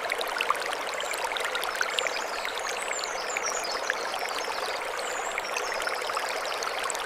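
Mountain stream running over stones: a steady rush of water with many small splashes and droplet ticks. High, thin chirps twitter over it from about one to six seconds in.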